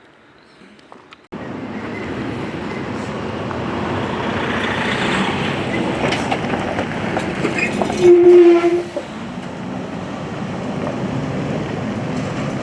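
A heavy vehicle passing close, a loud steady rumble that starts suddenly about a second in. About eight seconds in comes one short horn blast of about a second, the loudest sound.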